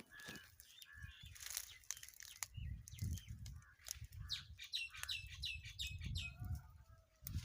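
Bird chirping: scattered short high calls, then a quick run of chirps, about five a second, between about four and six seconds in. A low rumbling noise runs under them.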